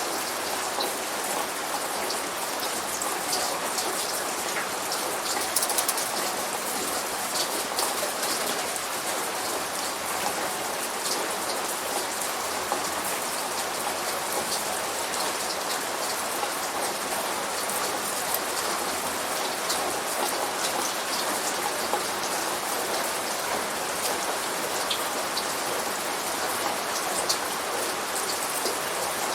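Steady light rain falling, an even hiss with scattered sharp ticks of individual drops.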